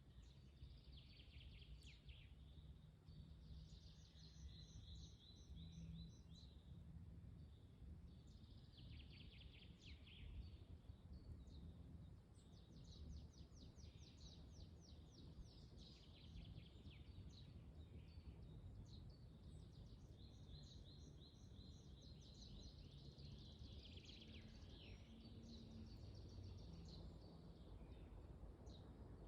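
Faint songbird song: phrases of rapid high trilling notes repeat every few seconds. A low rumble of wind runs under them.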